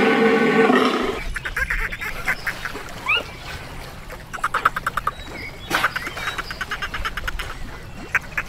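Ducks quacking in quick, rasping runs, after a loud, pitched animal call that cuts off about a second in.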